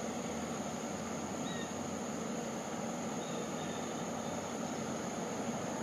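Distant LIRR DM30AC diesel locomotive approaching with its train, a steady low rumble. A constant high insect drone runs over it, and a couple of faint bird chirps come about a second and a half and three seconds in.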